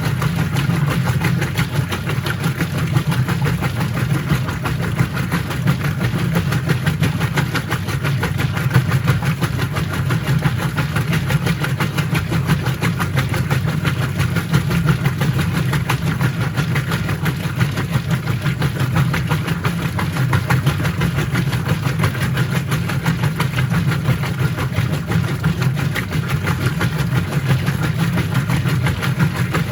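Whirlpool top-load washing machine running steadily, a continuous low motor hum with no pauses.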